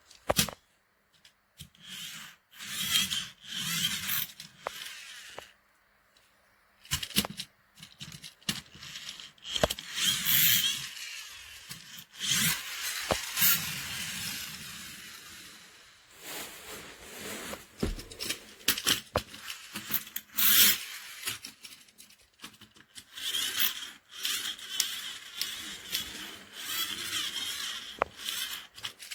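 Handling noise from the toy monster trucks: on-and-off scraping and rubbing with sharp clicks, broken by short pauses.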